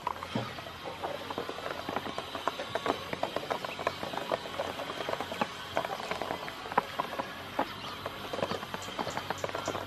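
Ducklings feeding, their bills making a steady patter of quick, irregular pecking clicks.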